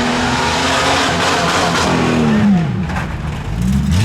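Tuff truck engine running hard under load. Its revs hold steady, drop away about two seconds in, then climb again near the end.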